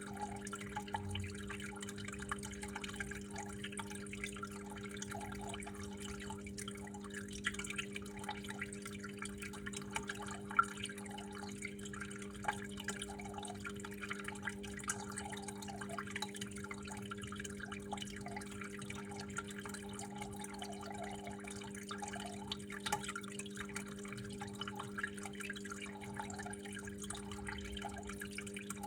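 Water trickling and dripping steadily, with many small irregular drips, over a steady low hum.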